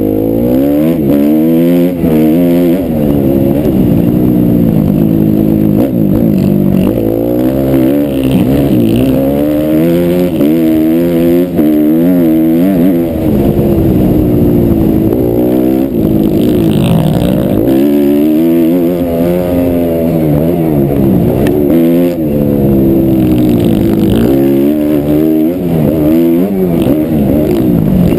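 Suzuki RM-Z250 four-stroke single-cylinder motocross engine, loud, revving up and dropping back again and again as the bike accelerates through the gears and slows for turns.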